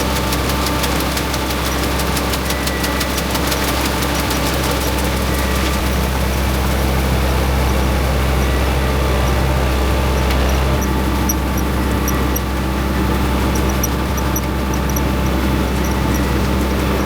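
A vehicle engine running steadily, with a fast fine rattle over the first few seconds.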